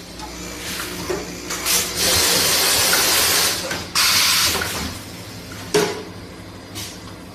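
Automatic vacuum tea packaging machine running with a steady low hum and letting out loud hisses of air: one long hiss, then a second that starts abruptly about four seconds in, followed by a sharp click near six seconds.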